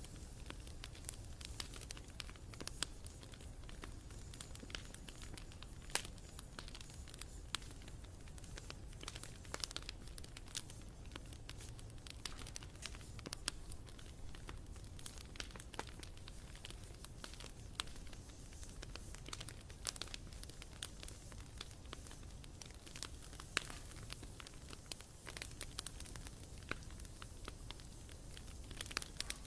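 Wood campfire burning, with a steady low hiss of flames and irregular sharp crackles and pops from the burning wood.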